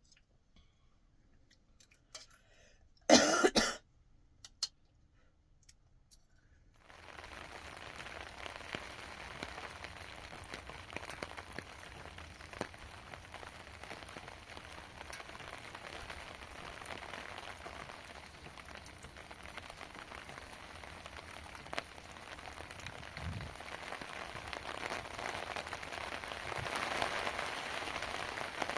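One loud cough about three seconds in. From about seven seconds steady rain falling, with scattered drop ticks, growing louder toward the end.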